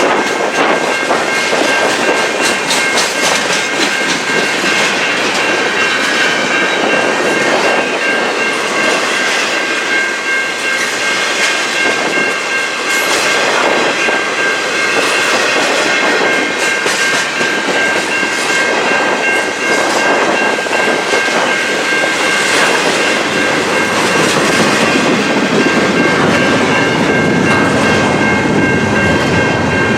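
Freight train cars rolling past at close range, a steady loud rumble with wheels clicking over rail joints and a steady high ringing from the wheels and rails.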